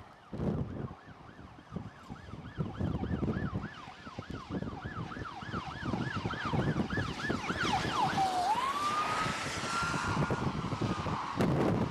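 Emergency vehicle siren on yelp, rising and falling about three times a second, then switching to a slower wail about eight seconds in. Wind buffets the microphone underneath.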